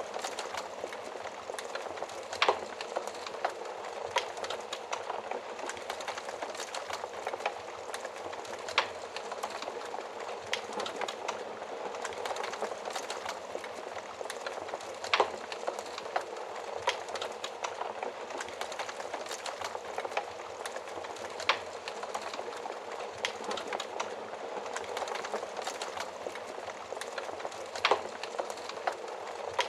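Fire crackling steadily: a constant hiss of small crackles with a louder sharp pop about every six seconds.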